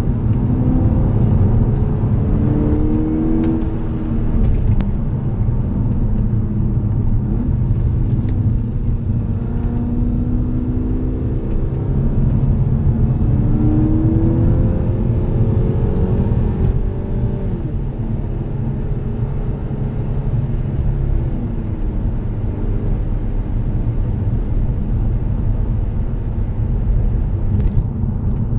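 Volkswagen Mk6 GTI's turbocharged 2.0-litre four-cylinder engine heard from inside the cabin, its pitch climbing and falling several times with the revs while driving, over a steady road and tyre rumble.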